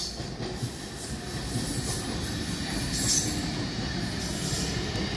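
Electric multiple-unit local train passing close by: a steady rumble of wheels on rails with a high hiss over it.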